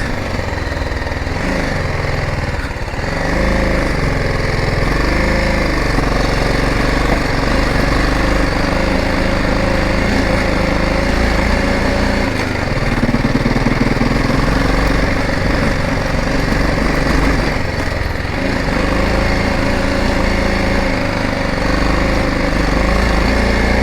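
BMW motorcycle engine running while the bike is ridden, its note rising and falling a few times in the first seconds, then holding steady.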